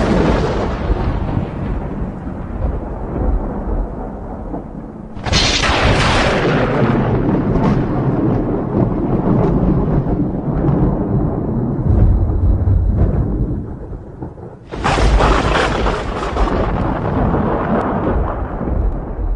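Thunderstorm: a roll of thunder that is already rumbling at the start, then two more sudden sharp cracks of thunder about five and fifteen seconds in. Each crack trails off into long, low rolling rumble.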